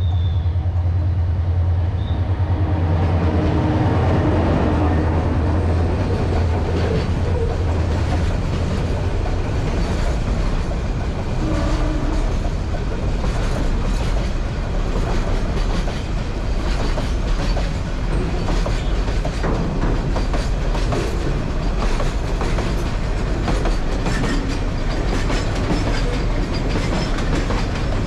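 A train running on the line: a steady low hum for the first several seconds, then the wheels clacking over the rail joints in a quick, continuous run of clicks.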